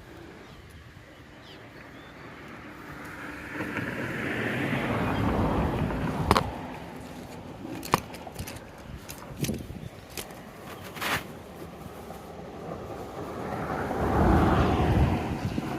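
Two vehicles passing on the road over the bridge, each swelling up and fading away, with a few sharp clicks between the two passes.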